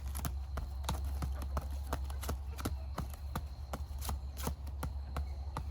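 Tom turkey strutting in display, with an even patter of sharp steps about three to four a second over a steady deep hum, the low drumming a displaying tom makes.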